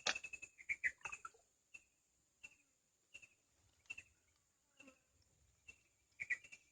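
A bird chirping in short, high, repeated calls about once a second, over a steady high-pitched insect buzz.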